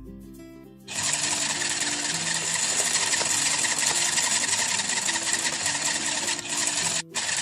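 Small electric motor of a toy kitchen appliance whirring steadily after pink Play-Doh goes in. It starts about a second in, cuts out briefly near the end, then runs again for a moment, with soft background music underneath.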